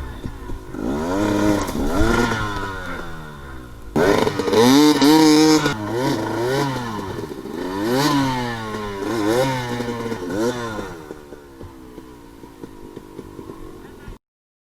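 Dirt bike engine revving up and down again and again as the throttle is worked, jumping louder about four seconds in and easing to a lower, steadier run near the end, then cutting off suddenly.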